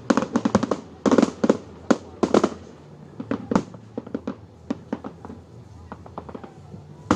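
Fireworks display: a rapid run of loud bangs for the first two and a half seconds, then scattered, fainter pops and cracks.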